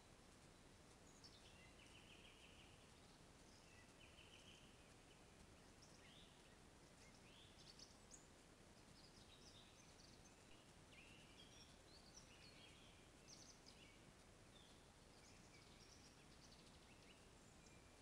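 Faint birdsong: small birds calling in short chirps and twittering phrases, scattered throughout over a steady low hiss.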